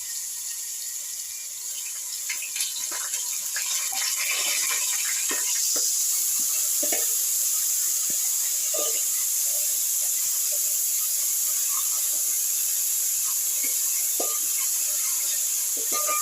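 Browned onions and ginger-garlic paste frying in hot oil, a steady sizzle that grows louder about four seconds in, with a spoon clicking and scraping against the pot as it is stirred.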